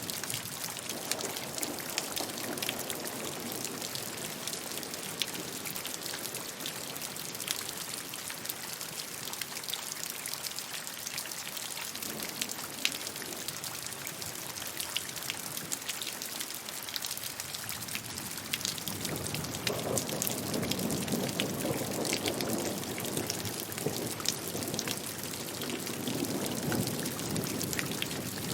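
Steady rainfall: a continuous hiss with many individual drops pattering, swelling a little fuller in the low part of the sound after about 19 seconds in.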